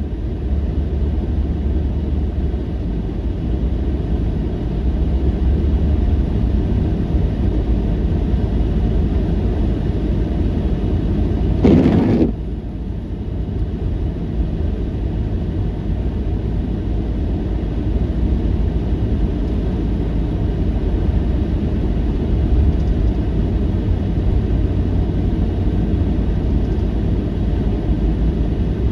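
Steady low rumbling noise, with one brief louder rush about twelve seconds in.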